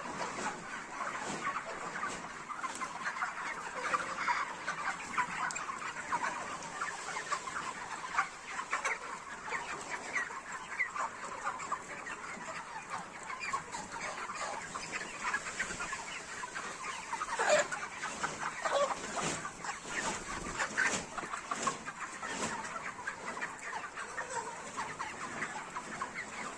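A large flock of broiler chickens, about 40 days old, clucking and calling all at once in a dense, continuous chatter. A few louder calls stand out a little past the middle.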